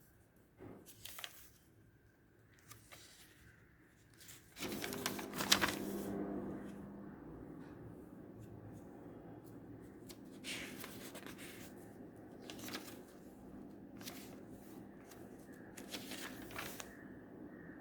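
Paper rustling and being handled in scattered short bursts, like pages or sheets being shuffled. About four and a half seconds in, a steady low hum starts and carries on under the rustling.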